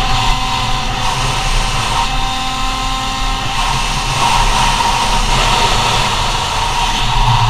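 Go-Ped scooter's CR70 engine running steadily at speed during a ride, with a sustained high engine note.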